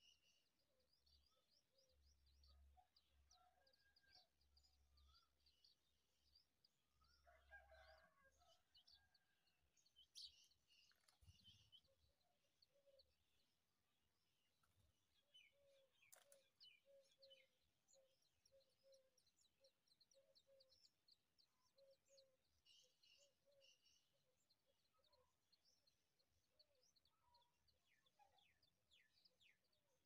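Very faint bird calls, near silence overall: many short high chirps throughout, with a run of low short notes at about two a second in the middle stretch.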